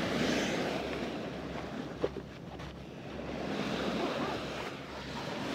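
Sea waves washing up on a sandy beach, swelling twice, with a short click about two seconds in.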